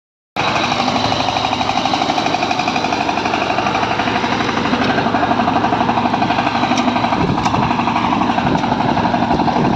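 Kirloskar Mega T 15 power tiller's single-cylinder diesel engine running steadily with a fast, even beat.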